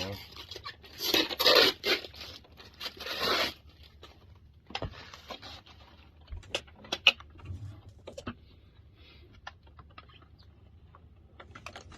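Packing layers being pulled off and handled: several loud rustling, tearing bursts for the first three and a half seconds, then scattered light clicks and knocks.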